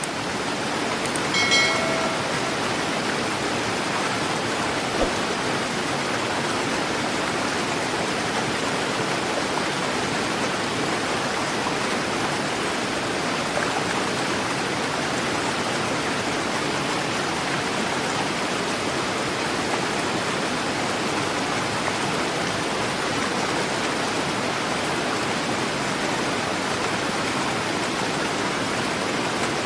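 River water rushing swiftly in a steady, unbroken flow. A brief pitched call sounds over it about a second and a half in.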